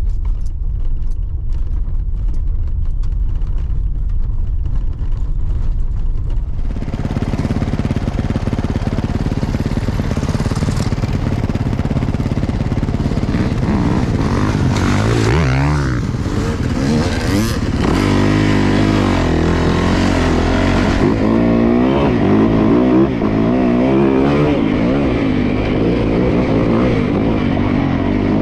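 Yamaha YZ450F dirt bike's single-cylinder four-stroke engine running while ridden. It is a low steady rumble at first, then louder about six seconds in, and from about halfway its pitch rises and falls again and again as it is revved and shifted.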